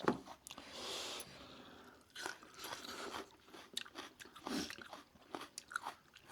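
A person chewing and crunching food close to the microphone, with irregular crisp crunches and mouth clicks.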